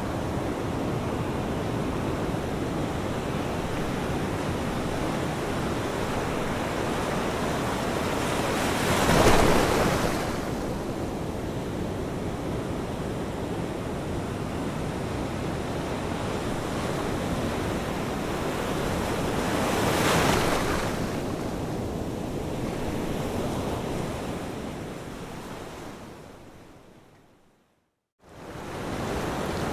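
Ocean waves washing onto a shore: a steady surf hiss, with a louder wave breaking about nine seconds in and another about twenty seconds in. Near the end the sound fades out to silence for a moment and then comes back.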